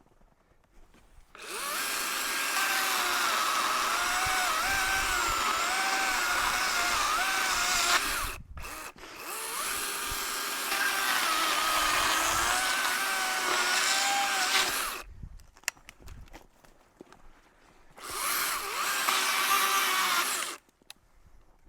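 Chainsaw cutting at full throttle in three bursts, about six seconds, six seconds, then two and a half, its engine pitch dipping and wavering as the chain bites. Between cuts the saw drops back to a quiet idle.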